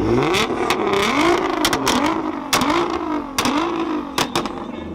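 A car engine being revved over and over, its pitch climbing and dropping about four or five times, with several sharp cracks among the revs.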